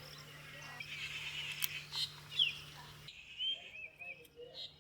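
Small birds chirping in short quick calls, with a few faint clicks and a low steady hum that cuts off about three seconds in.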